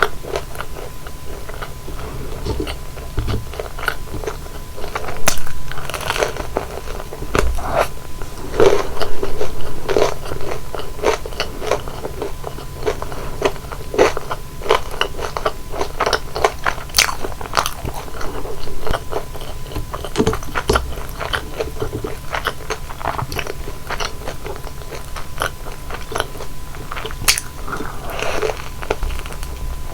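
Close-miked eating sounds: biting into and chewing crispy deep-fried flower buns, with crunchy bites and crackles at an irregular pace and a few louder crunches.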